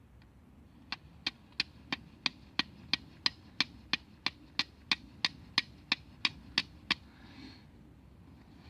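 A steady run of about nineteen sharp knocks, roughly three a second, starting about a second in and stopping about seven seconds in.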